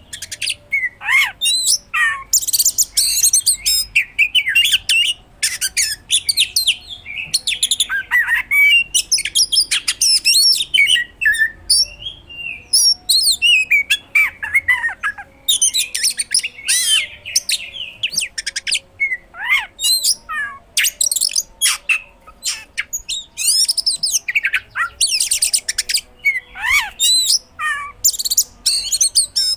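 Oriental magpie-robin (kacer) singing non-stop in loud, rapid phrases of quick falling whistles and sharp high notes, full of mimicked calls of other birds.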